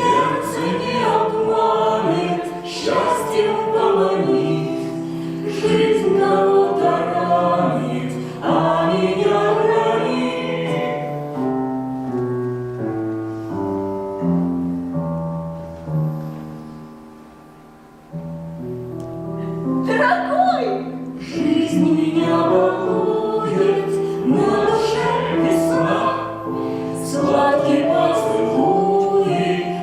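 A choir singing a slow song in several voices, with long held notes. The singing sinks low a little past halfway and comes back in full a couple of seconds later.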